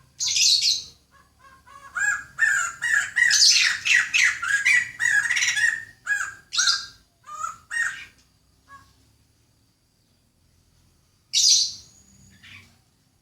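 Birds calling: a short call at the start, then a busy run of quick chirps and squawks, a pause of a few seconds, and one loud call near the end.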